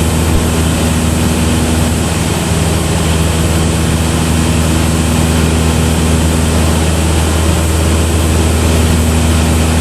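Cessna 172's piston engine and propeller droning steadily in flight, with a few low steady tones under an even rush of noise.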